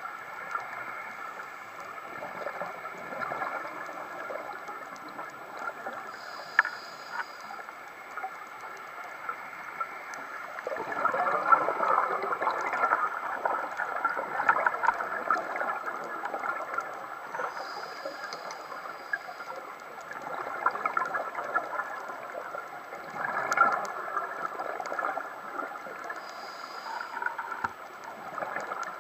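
Scuba regulator breathing underwater: gurgling bursts of exhaled bubbles, with a short hiss of inhalation about every ten seconds.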